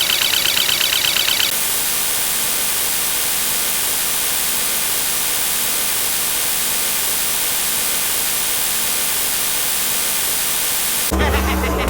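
Steady static hiss like white noise, taking over from a rapidly pulsing high electronic buzz that cuts off about a second and a half in. Music starts just before the end.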